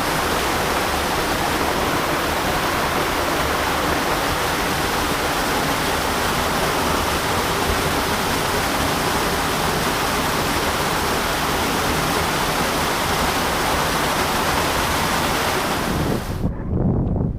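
Waterfall inside a narrow rock gorge, a steady, loud rush of falling water. It cuts off abruptly near the end and gives way to uneven wind buffeting the microphone.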